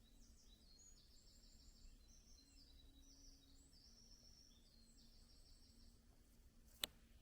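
Faint birdsong: short, high, rapid trilled phrases following one another throughout, with one sharp click near the end.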